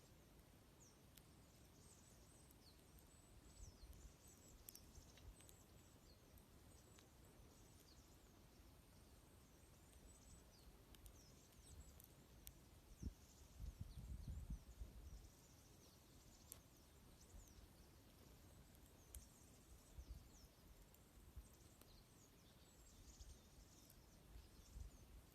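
A flock of small birds chirping and twittering, many short high calls, with occasional faint snaps from a wood fire and a brief low rumble about halfway through.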